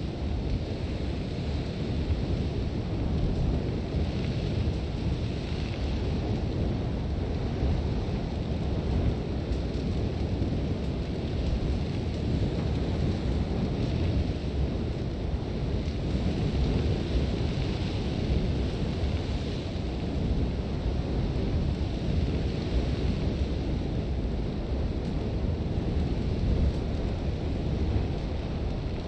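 Sandstorm wind: a constant deep rumble of gusting wind, with a hiss of blowing sand that swells and fades at intervals.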